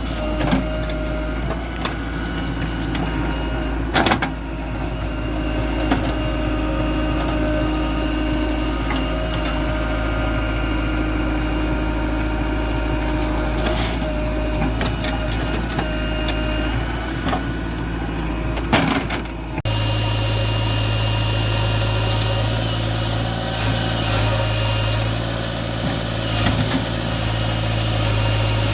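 Heavy diesel machinery running steadily, with a few sharp knocks and clanks; about two-thirds of the way in the sound changes abruptly to a deeper, stronger steady hum.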